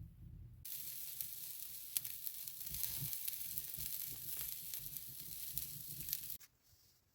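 A steady sizzling hiss with scattered sharp crackles that starts suddenly just under a second in and cuts off abruptly near the end.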